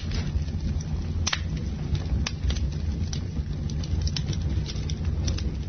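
Campfire crackling: irregular sharp pops and snaps over a steady low rumble of flames.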